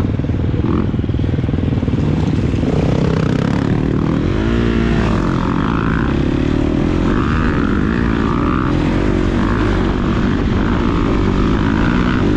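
Four-stroke motocross bike engine running under load, its revs rising and falling as the throttle is worked, with a marked swoop in pitch about four to five seconds in.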